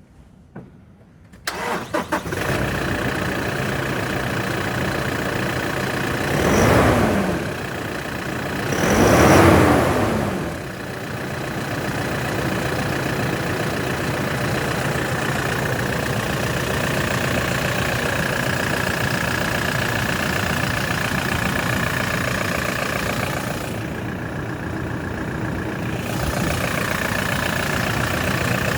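2016 Toyota Hilux engine starting about two seconds in after a few clicks, then idling steadily. It is revved twice briefly, about seven and nine and a half seconds in, each rev rising and falling back to idle.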